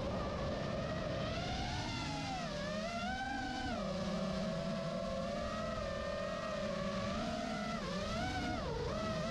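Electric motor and propeller whine of radio-controlled aircraft, a steady pitched drone whose pitch rises and falls smoothly with throttle, over a lower steady hum.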